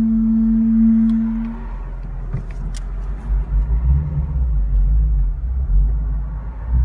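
2015 Mustang GT Performance Pack Brembo brakes making a steady low grinding groan, one even tone that stops about a second and a half in. Low rumble of the car follows.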